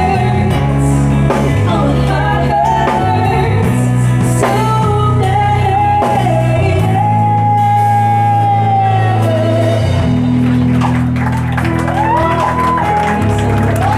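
Live band playing a pop-rock song: a lead singer over guitar and bass, with one long held vocal note about halfway through.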